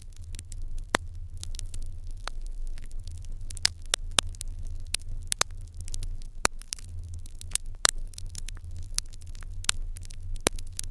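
Wood fire crackling in an irori hearth, with frequent irregular sharp pops over a low steady rumble.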